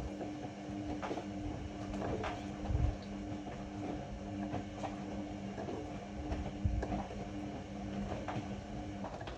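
Ariston AML125 washer-dryer turning its drum: a steady motor hum with low thuds of tumbling laundry every few seconds and light clicks. The motor hum stops near the end.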